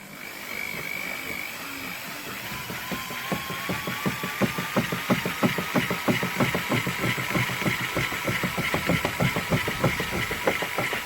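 Old Makita variable-speed drill running in reverse, turning a small washing machine. The motor whine rises slightly in pitch, and from a few seconds in there is a rapid, even knocking at about four a second.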